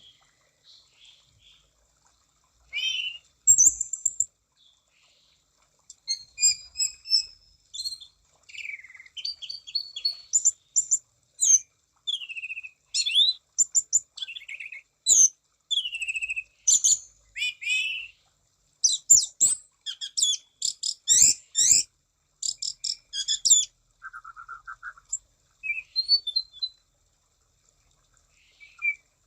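Orange-banded thrush (anis cendana) in full song: a loud, varied run of short whistled phrases, sliding notes and rapid trills, broken by brief pauses.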